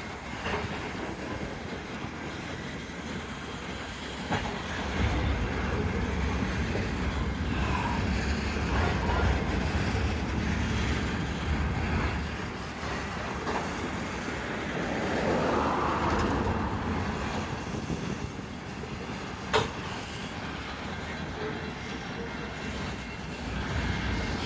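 Loaded coal train's freight cars rolling past, a steady rumble with wheels clicking over the rails that grows louder about four seconds in. A brief higher-pitched wheel squeal comes near the middle, and there is a single sharp click near the end.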